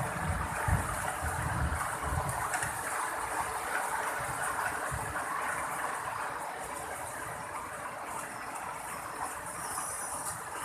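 Heavy rain falling in a steady hiss, with low rumbling bursts in the first couple of seconds and once more near the middle.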